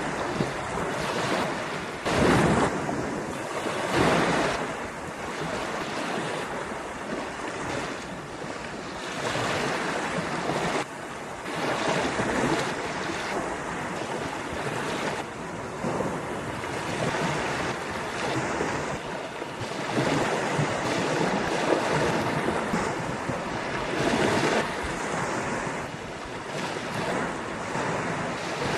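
Ocean surf breaking on a beach: a continuous wash of waves with louder breakers every few seconds, and wind on the microphone.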